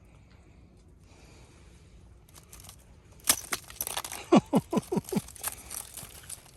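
Ice crackling and clinking: a rapid run of sharp clicks and cracks begins about three seconds in, with a few quick falling squeaks among them.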